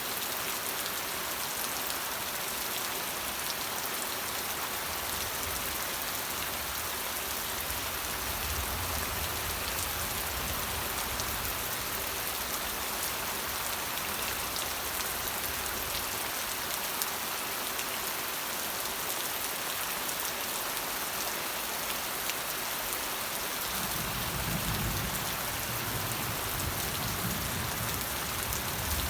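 Steady rain falling, a dense even hiss of drops, with a low rumble swelling underneath twice, about eight seconds in and again near the end.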